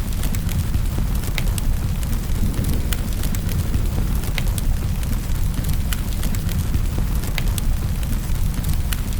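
Wood fire in a fireplace crackling, with many sharp pops and snaps scattered irregularly over a steady low rumble.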